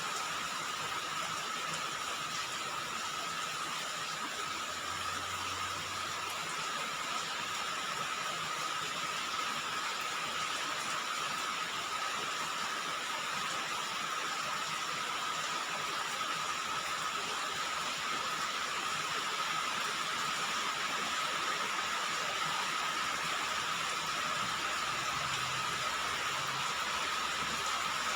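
Steady rain falling on a roof, an even, unbroken patter of drops.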